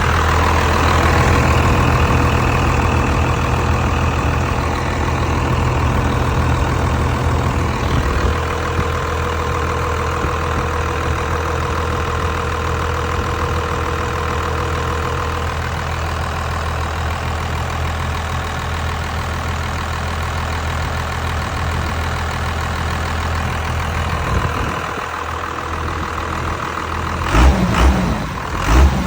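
12-valve Cummins 5.9 L inline-six diesel in a second-generation Ram idling steadily, running on a freshly installed dual-feed fuel supply to its P-pump. The low rumble drops away about 25 seconds in, followed by a few loud thumps near the end.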